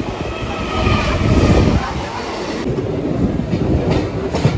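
Electric suburban local train running, heard from inside the passenger carriage: a steady rumble of wheels on the track, with several sharp clacks near the end.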